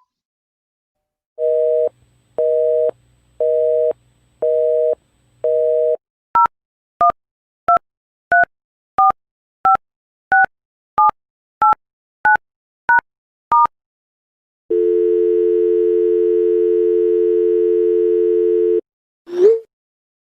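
Telephone line tones in sequence. First a busy signal of five beeps, about one a second. Then twelve keypad touch-tones dialled at about one and a half a second, then a steady dial tone for about four seconds, and near the end a short swooping electronic tone.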